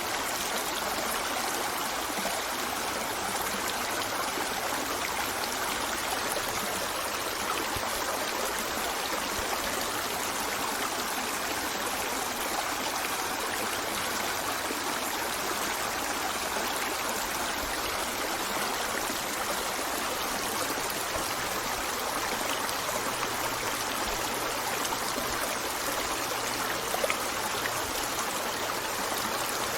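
A river flowing steadily, an even, unbroken rush and trickle of running water.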